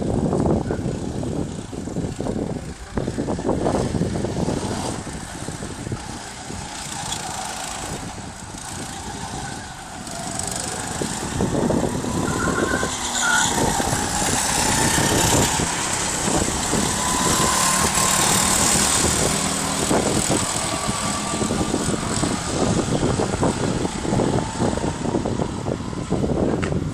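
Go-kart engines running on a track, with engine pitch rising and falling in the middle as karts accelerate and pass.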